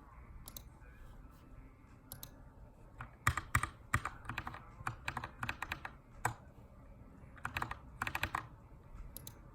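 Typing on a Keychron K2 aluminium-framed mechanical keyboard with brown switches. The keystrokes come in short flurries separated by pauses, with the densest and loudest run about three to four seconds in, as in text editing.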